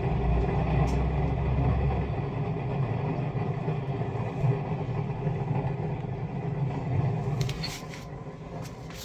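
Hotpoint washing machine drum being turned by hand, giving a steady low noise from its damaged drum bearings; the noise dies away near the end, followed by a few light clicks.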